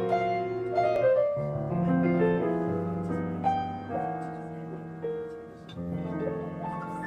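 Piano music: slow, held chords that change every second or two.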